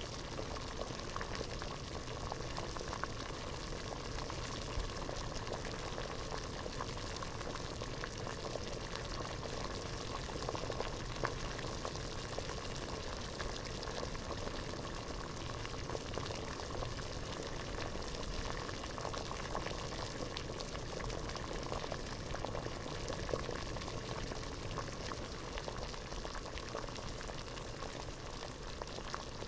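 Water boiling in a pot: a steady bubbling with many small pops.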